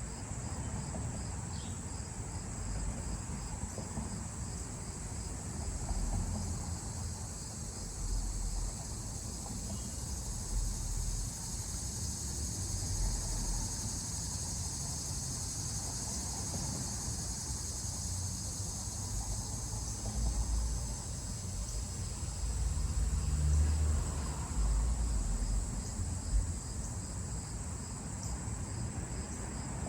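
Steady high-pitched insect chorus with a faster, evenly pulsing trill beneath it, over a low uneven rumble that swells for a few seconds past the middle.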